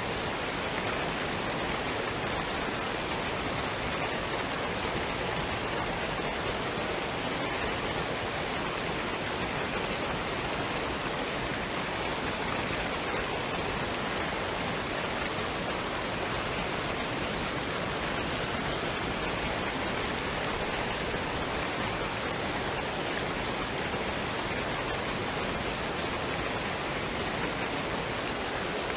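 Waterfall and stream water rushing in a steady, even noise, without breaks or changes.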